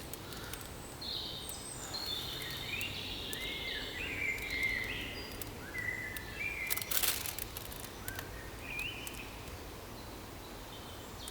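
Birds chirping: a run of short, rising notes, with a brief noise about seven seconds in, over a faint steady outdoor background.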